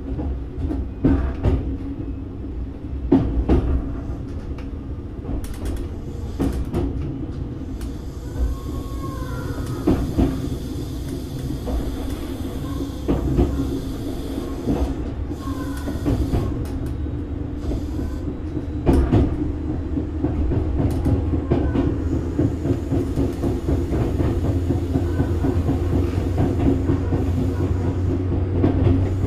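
Tobu 6050-series electric train, motor car MoHa 6161, running on the line, heard from inside the car behind the crew cab: a steady rumble with frequent clattering knocks from the rail joints and rattling doors, and a few faint brief squeals. A low hum grows louder near the end.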